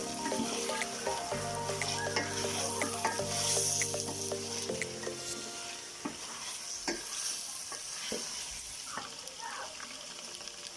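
Pinakbet vegetables sizzling in a pan while being stirred, with a steady hiss and scattered clicks and scrapes of the utensil against the pan.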